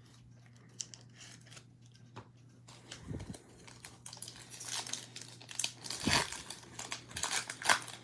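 Foil wrapper of a baseball card pack being torn open and crinkled, the crackling growing denser in the second half, with a couple of soft thumps from handling.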